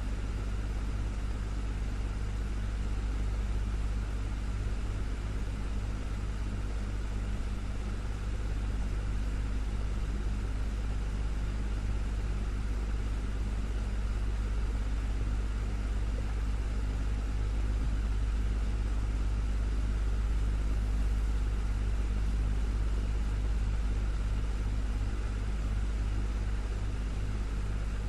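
Desktop fan running steadily, a continuous low hum with a soft whoosh of moving air.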